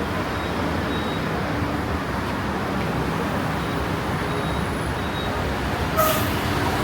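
Steady city road traffic noise, with one sharp click near the end.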